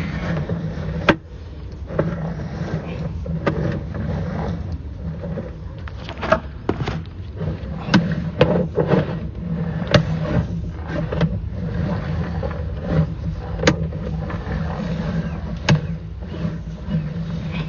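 Sewer inspection camera and its push cable being pulled back through the sewer line, giving irregular clicks and knocks over a steady low hum.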